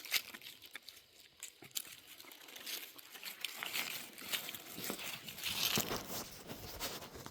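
Dry twigs and leaves crackling and snapping in an irregular run of sharp clicks and rustles, busier in the second half.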